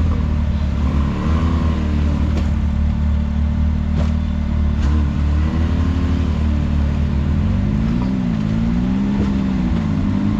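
Can-Am Maverick X3 side-by-side's turbocharged three-cylinder engine running on the trail, its revs rising and falling every second or two as it is driven over uneven ground. A few sharp knocks sound in the first half.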